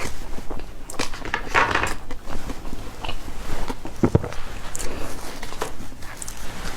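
Close-miked chewing of soft cake: irregular wet mouth smacks and clicks.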